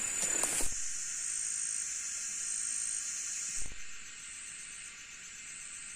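Steady high-pitched chorus of insects shrilling in forest, dropping a little in level about four seconds in, with one soft low thump just before the drop.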